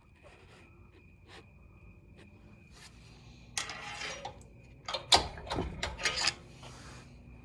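Metal parts scraping, then a sharp clank followed by several knocks and scrapes, as steel frame pieces are moved into position.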